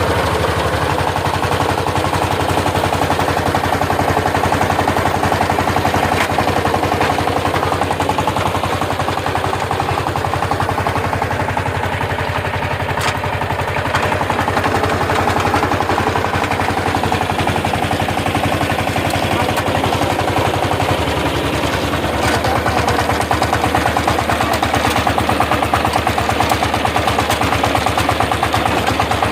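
Power tiller's single-cylinder diesel engine running steadily with a rapid, even chugging beat, its low note shifting slightly about two-thirds of the way through.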